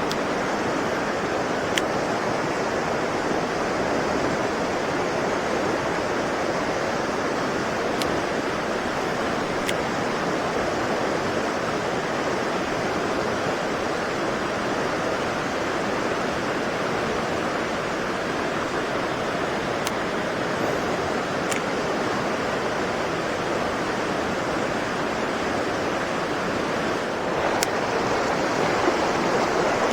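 Mountain stream swollen by heavy rain, running fast with a steady full rush of water, and a few faint sharp clicks scattered through it.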